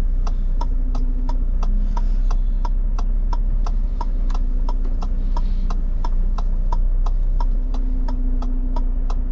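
Renault Trucks T480 idling, heard from inside the cab as a steady low hum, with the direction indicators ticking evenly at about three clicks a second.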